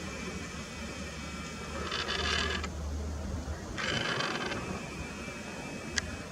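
Nikon P900 camera's built-in lens motor whirring in two short bursts, with a faint steady high hum under them and a single sharp click near the end.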